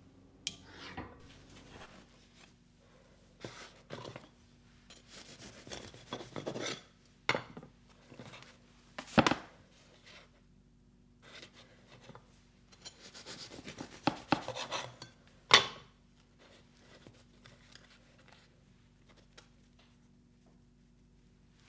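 Kitchen items being handled: irregular knocks, clinks and short rubbing or scraping sounds, busiest in the middle and fading out over the last few seconds, with a faint steady hum underneath.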